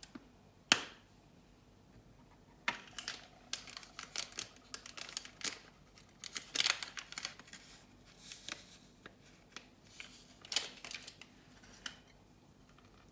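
A sharp click, then about nine seconds of small, irregular crisp clicks, snips and rustling from things being handled at close range in a small room.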